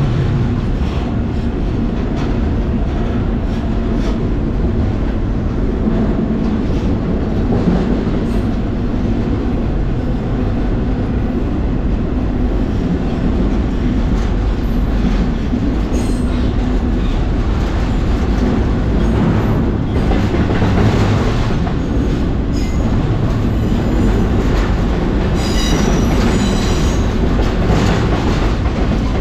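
Train rolling on the rails: a loud, steady rumble and rattle of wheels, with a high-pitched wheel squeal near the end.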